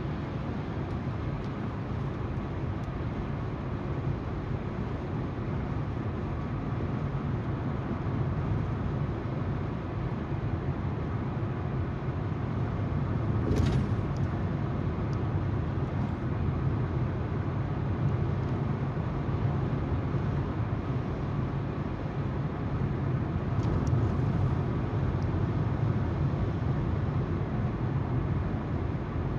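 Steady car road noise: tyres on the road and the hum of the engine while driving, with a brief click about halfway through.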